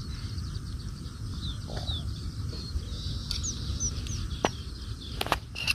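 Small birds chirping in short falling notes over steady outdoor background noise. A few sharp clicks come near the end.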